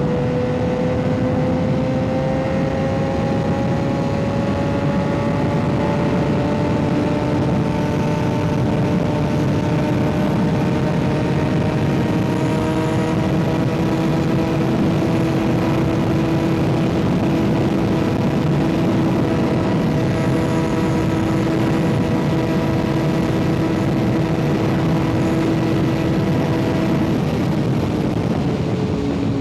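Kawasaki ZX-6R 636 inline-four with an M4 exhaust running under way, its note rising slowly and then holding steady at cruise over a constant wind rush; the engine note changes near the end.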